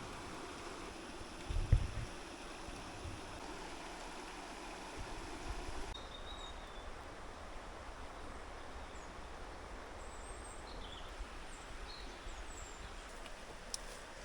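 River water flowing steadily, with a low thump about two seconds in. A bird gives a few short high chirps in the second half.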